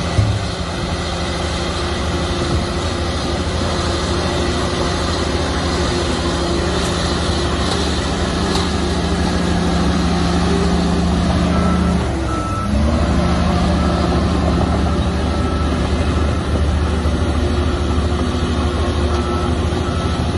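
Heavy diesel earthmoving machinery running steadily. About twelve seconds in, the engine note dips briefly and drops in pitch, then picks back up. From then on a reversing alarm beeps in a steady rhythm, pausing once near the end before resuming.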